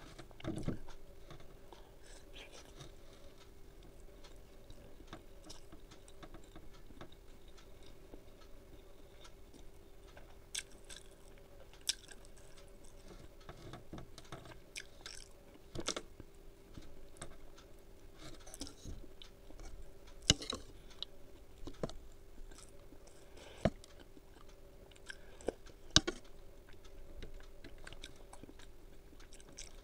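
Close-miked chewing and mouth sounds of a person eating, with scattered sharp clicks and brief crunches over a faint steady hum.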